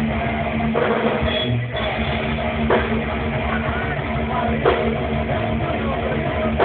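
Live rock band playing loud and continuous, with electric guitar, bass and drum kit, recorded on a phone that cuts off the top end.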